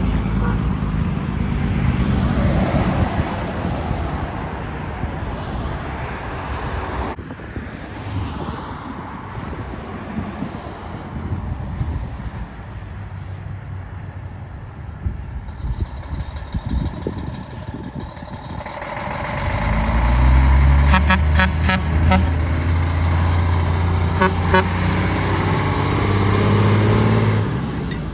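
Heavy diesel trucks passing on a road. A loud truck engine rumbles through the first several seconds, lighter traffic follows, and about nineteen seconds in another big truck engine builds up loud and steady for about eight seconds before fading.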